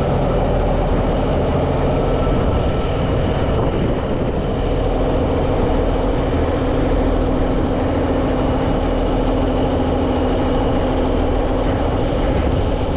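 Heavy diesel truck engine running steadily. About four seconds in, its note steps up to a higher steady pitch and holds there.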